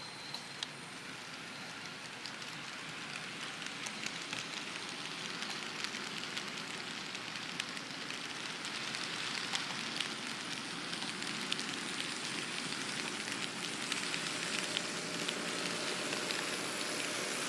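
N scale model train running on the layout: a steady crackling rush of wheels and motor with scattered clicks, slowly growing louder.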